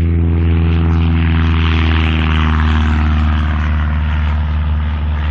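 Helicopter running: a steady low drone, with a rushing noise that swells and then fades over the middle few seconds.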